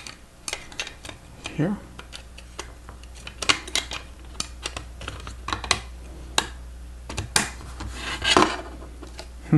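Plastic Lego Technic parts clicking and clattering as a panel is handled and pushed into place, with irregular sharp clicks throughout and a brief rubbing clatter near the end.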